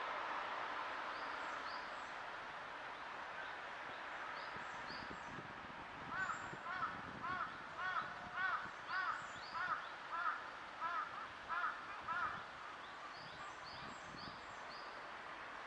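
A bird calls a fast series of about a dozen arched notes, roughly two a second, for several seconds in the middle. Faint high chirps of small birds and a steady hiss sound behind it.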